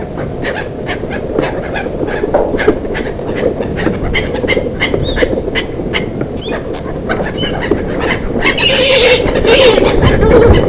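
Birds calling with many short, quick chirps over a steady low rumble, with a louder, harsher stretch of calling about nine seconds in.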